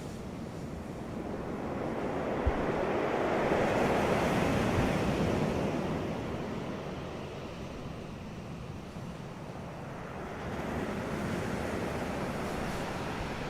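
Sea waves breaking on a beach: a wave swells to a peak about four seconds in and washes back, and the next one builds from about ten seconds in.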